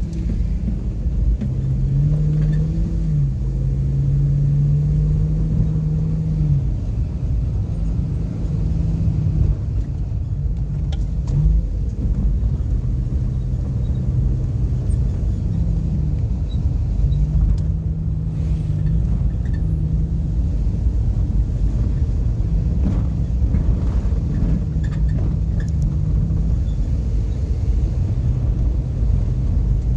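Car engine and road rumble while driving, with the engine note shifting up and down several times as the speed changes.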